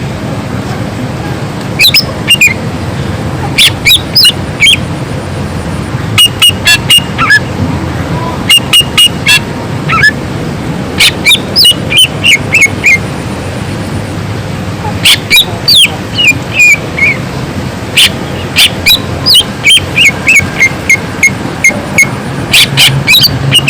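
Greater green leafbird (cucak ijo) singing loudly in repeated bursts of sharp, quick notes, many dropping in pitch, with short pauses between phrases. A steady low hum runs underneath.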